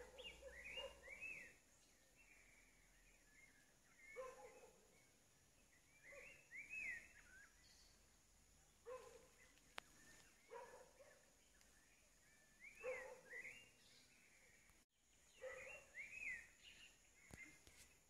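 Faint wild birdsong in woodland: a bird repeats a short phrase of quick rising-and-falling whistled notes every two seconds or so, with lower calls mixed in.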